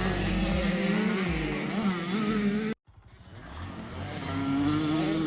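A two-stroke motocross bike engine running and revving, with music under it at first; the sound cuts off abruptly about halfway through, then the engine fades back in and its pitch rises near the end.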